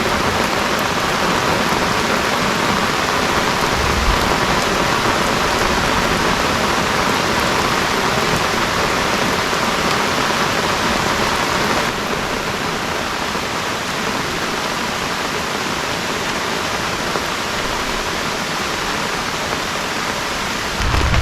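Heavy rain falling steadily as an even hiss, dropping slightly in level about twelve seconds in.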